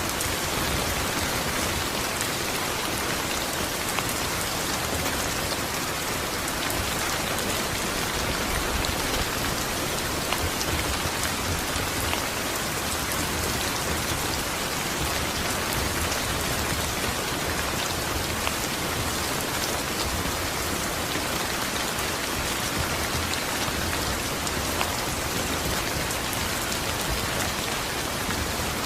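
Steady rain falling on a surface, with many individual drops ticking through an even hiss.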